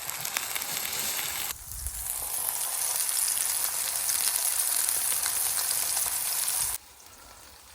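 Food sizzling steadily as it fries in a pan, with a brief dip about a second and a half in; the sizzle drops off suddenly to a faint hiss near the end.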